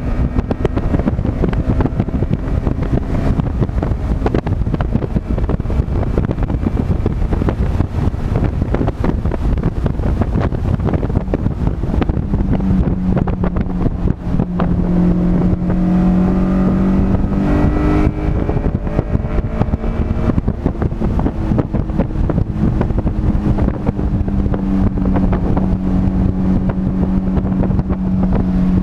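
A car's engine running hard at speed on a race track, with heavy wind rush over it. The engine pitch rises and falls with the throttle, then holds a strong steady tone from about twelve seconds in.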